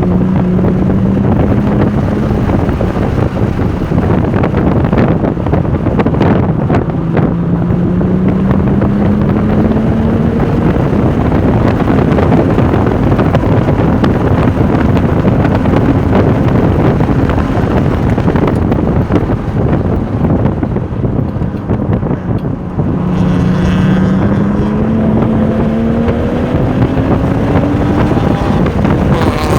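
Porsche 996 Turbo's twin-turbo flat-six under hard acceleration, its pitch rising over several long pulls and dropping back between them, with heavy wind noise on the microphone.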